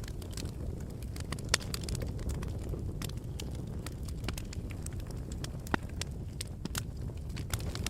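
Fire burning in a fireplace: a steady low rush under frequent sharp crackles and pops, the loudest pop about a second and a half in.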